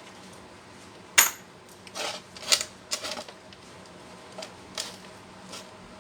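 Small metal parts clinking and knocking as they are handled. A sharp, ringing clink comes about a second in, followed by a quick run of lighter clinks and a few fainter knocks near the end.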